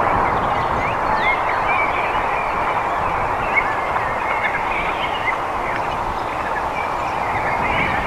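Short bird calls chirping again and again over a steady rushing background noise.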